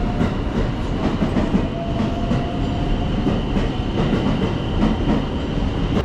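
Shinkansen train running on the rails: a steady rumble with a held high whine and repeated clicks from the wheels.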